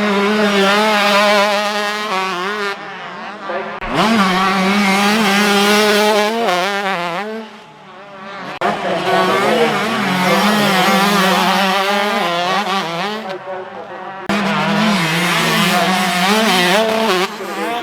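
Several 125cc two-stroke motocross bikes racing, their engines revving up and down as they work the track. The sound falls away about eight seconds in, then builds again as bikes come back round.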